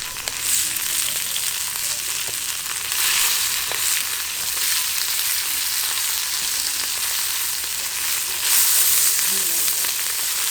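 Meat sizzling on a grill over charcoal, a steady hissing spatter with a lot of fat cooking out. It grows louder about three seconds in and again about eight seconds in.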